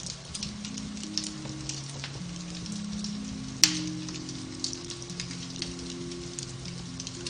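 Beech-wood fire crackling in a fireplace, with irregular small pops and one sharp, louder snap about halfway through, over soft piano-based relaxation music playing low sustained notes.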